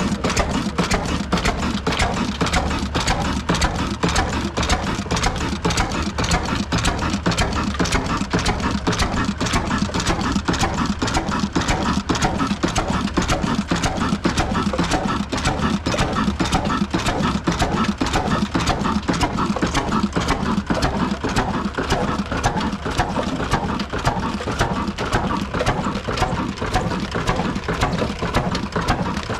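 Old stationary diesel engine running steadily, driving an aata chakki flour mill, with a dense, rapid, even clatter over a low hum.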